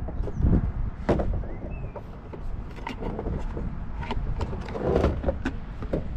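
Irregular clicks, knocks and rattles of an old coffee maker's parts being handled and pulled apart during scrapping, over a steady low rumble.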